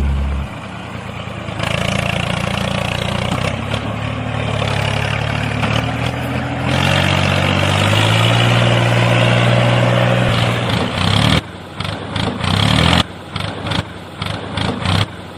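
A motor running steadily with an engine-like hum, stepping up in pitch about seven seconds in, then cut into short stop-start bursts for the last few seconds.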